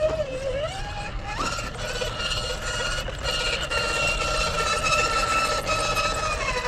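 1/10-scale RC rock crawler's electric motor and gears whining under drive, stepping up in pitch about a second in, holding steady, then dropping near the end. The drivetrain is sounding not so great, which the driver suspects may be the spur gear.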